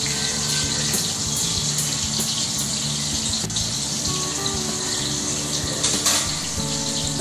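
Chicken frying in oil in a kadai, a steady sizzle, with soft background music underneath.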